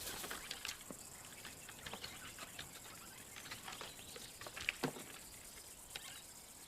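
Faint scattered scratches and knocks of a young lion's claws gripping tree bark as he hauls himself up the trunk, with one louder knock about two-thirds of the way through.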